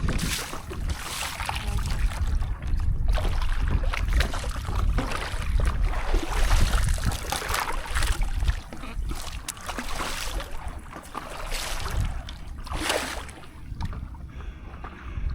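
Sea water splashing around a stand-up paddleboard in irregular washes, over a steady low rumble of wind buffeting the microphone.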